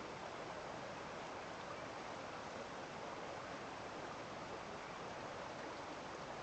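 Stream of water flowing, a steady, even rushing sound.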